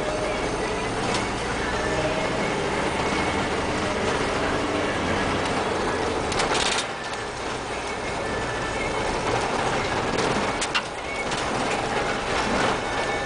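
Iveco Daily 35S14 diesel engine running steadily after a cold start at −16 °C.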